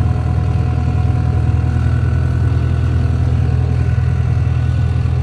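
Caterpillar bulldozer's diesel engine running at a steady idle, a deep, even hum that does not change.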